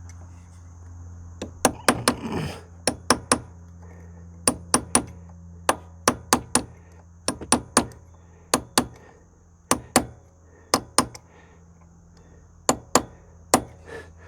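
Hammer tapping a steel punch to bend the lock-washer tab over the front sprocket nut: about two dozen sharp metal-on-metal taps, mostly in quick groups of two or three about a second apart, starting about a second and a half in.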